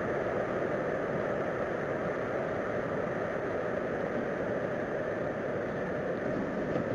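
A steady, unbroken drone with several held tones over a rumbling hiss, one of the unexplained 'strange sky sounds' of unknown source.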